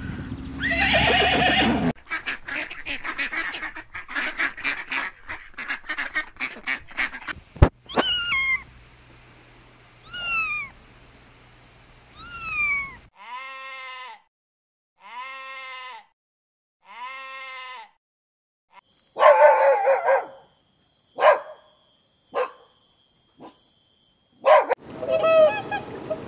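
A run of different animal calls, one clip after another: rapid clicking chatter, then three short falling squeaks, then four short arched calls, then several loud bleat-like cries.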